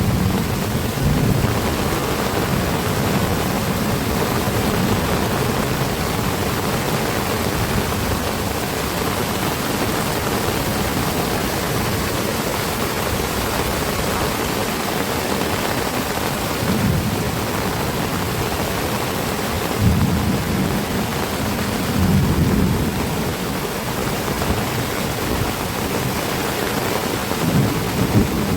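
Heavy rain pouring steadily, with several brief low surges in the second half.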